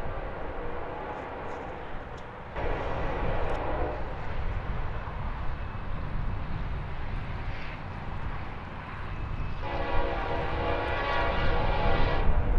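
Nathan K5LLE five-chime air horn on a Norfolk Southern SD40E locomotive, blown twice: a short blast a few seconds in and a longer one starting near the end, over a steady low rumble from the approaching train.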